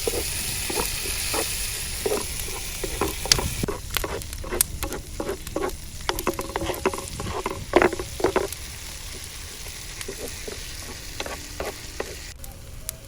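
Food frying and sizzling in a hot pan, the hiss stopping about three and a half seconds in. After that a utensil clicks and knocks against the pan many times as the food is stirred and turned, then it goes quieter.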